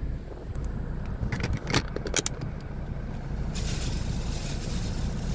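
A steady low rumble, like a motor vehicle running close by, with a few sharp clicks about one to two seconds in. About three and a half seconds in, a hissing rustle starts suddenly and carries on over the rumble.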